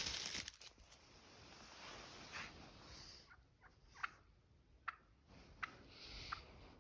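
Wild turkeys calling, with about six short, sharp notes spaced through the second half. A brief rush of noise fades away at the very start.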